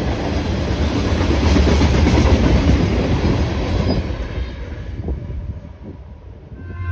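Freight train of covered hopper cars rolling past close by, steel wheels running on the rails. The end of the train passes about four seconds in, and the rolling noise fades away as it goes.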